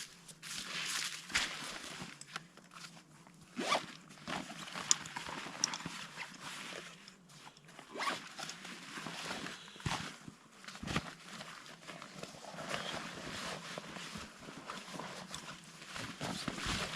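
Rummaging through a backpack: zips being pulled and fabric and gear rustling, with a few short knocks among the rustling.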